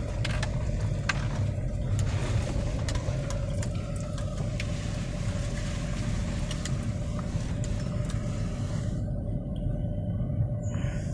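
Car engine running, heard from inside the cabin: a steady low rumble with a constant hum and a few light clicks.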